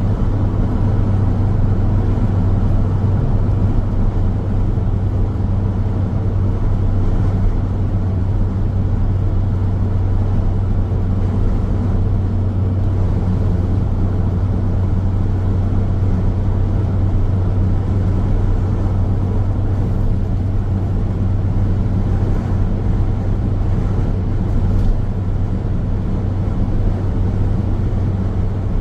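Car driving steadily along a road: continuous tyre-on-road and engine noise with a steady low hum.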